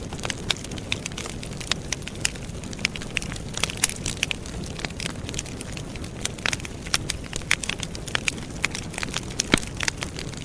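Outdoor wood campfire crackling and popping, with many sharp, irregular snaps over a steady low rumble of burning.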